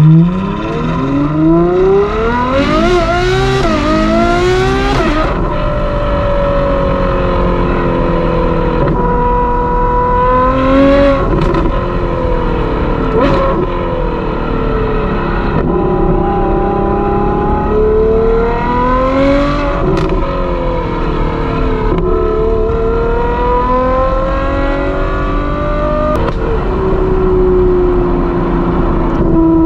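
Ferrari 812 GTS's 6.5-litre V12 through a Novitec exhaust, heard from the open cockpit: a hard pull with the engine note climbing steeply for about five seconds, then an upshift. After that it runs at part throttle, the pitch swelling and dropping back through several gentle pulls and gear changes.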